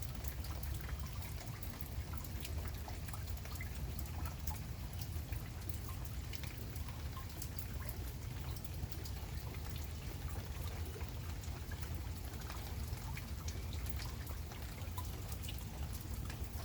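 Steady rain falling, with many scattered drop ticks and a trickling, pouring sound of runoff water, over a low steady rumble.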